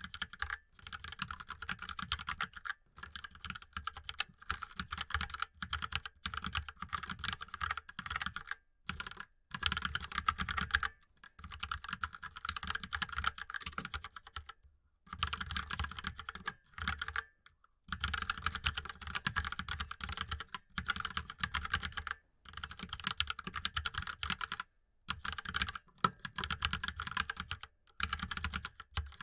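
Fast typing on a mechanical keyboard: dense runs of key clicks broken by brief pauses every few seconds.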